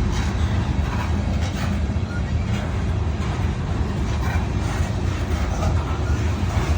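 A train rolling past with a steady low rumble, broken by faint irregular clanks.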